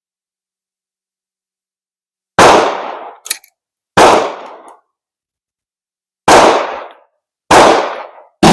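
Five gunshots at uneven intervals, each a sharp crack with a short fading tail, the last two about a second apart.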